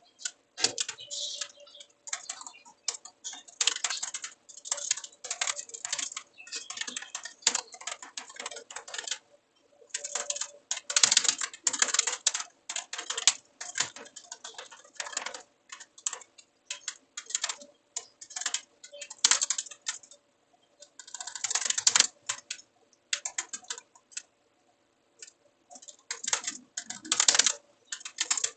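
Typing on a computer keyboard: quick runs of keystrokes broken by short pauses, with a gap of about two seconds near the end. A faint steady hum runs underneath.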